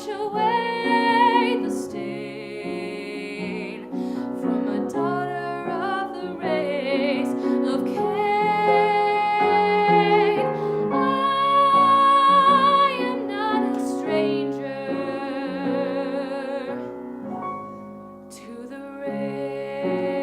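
A woman singing long held notes with vibrato over piano accompaniment.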